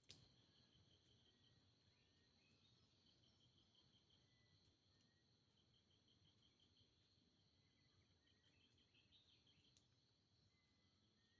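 Near silence with faint insects trilling: a steady high buzz under runs of rapid pulsed chirps. A single click right at the start.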